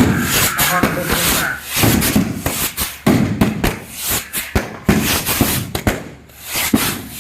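Firecrackers going off in quick, irregular succession: a dense run of sharp bangs and cracks.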